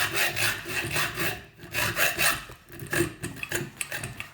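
A hand saw cutting through the metal sheath of a scrap kettle heating element, rasping in quick back-and-forth strokes with a short pause about one and a half seconds in.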